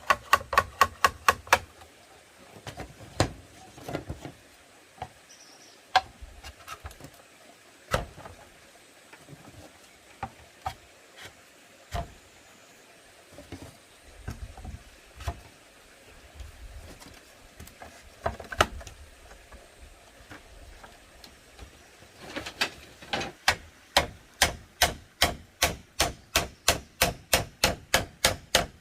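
Repeated sharp tool strikes on bamboo or wood: a quick run of blows at first, then single knocks every second or two, then a steady run of about three strikes a second for the last six seconds or so.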